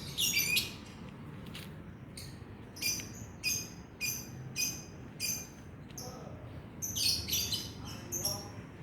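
Lovebird giving repeated short, high chirps, roughly one or two a second, with a quicker flurry of calls near the end.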